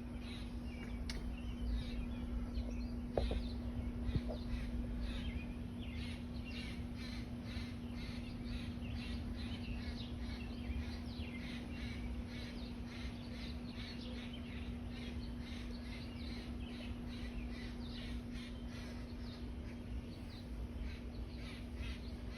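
Birds calling outdoors, many short harsh calls repeating throughout, over a steady low hum and a low rumble.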